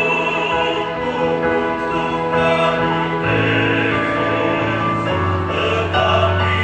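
A choir singing in harmony, several voice parts holding long sustained notes, with the low notes stepping to new pitches partway through.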